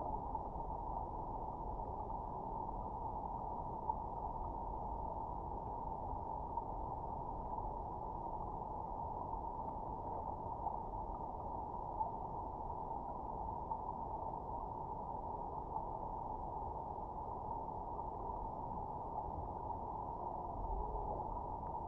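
River water recorded underwater: a steady, muffled rush of the current, with a few small clicks scattered through it.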